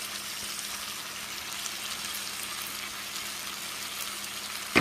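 Potatoes, sausage and vegetables sizzling steadily in butter in a frying pan. A single sharp knock comes right at the end.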